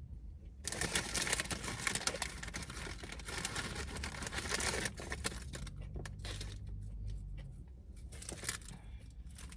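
Paper sandwich wrapper crinkling and rustling as it is handled. It is dense for the first half, then thins to scattered crackles.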